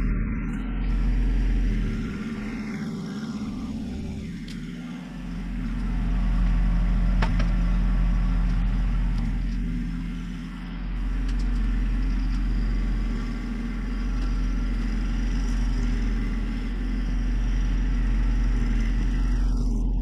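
John Deere 1025R's three-cylinder diesel engine running steadily, easing off twice for a few seconds.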